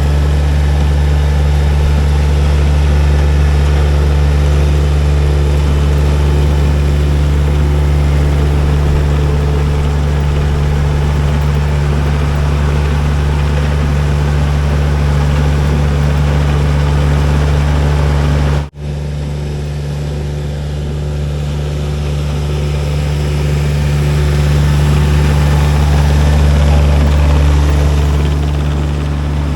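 Baumalight TRL620D mini skid steer's engine running steadily with an even low hum, cutting out for an instant about two-thirds of the way through and swelling slightly near the end.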